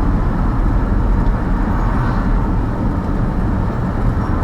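Steady road and engine noise of a vehicle being driven, heard from inside the cabin.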